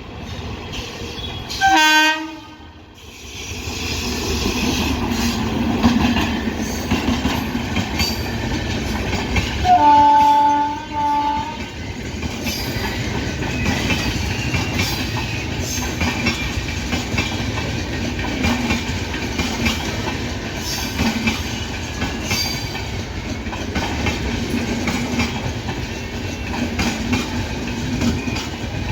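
Shatabdi Express hauled by a WAP-7 electric locomotive rolling through a station, with a steady rumble and the clickety-clack of coach wheels over rail joints. A train horn gives a short blast about two seconds in and a longer blast of about two seconds around ten seconds in.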